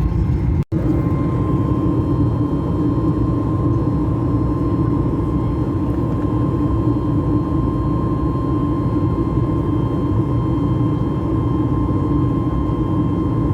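Steady vehicle engine rumble with a constant hum tone over it, cutting out for an instant less than a second in.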